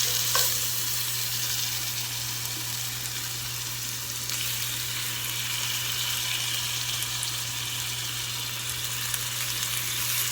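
Thin-cut chicken breasts frying in a hot pan of brown butter and avocado oil: a steady sizzle, with a steady low hum underneath.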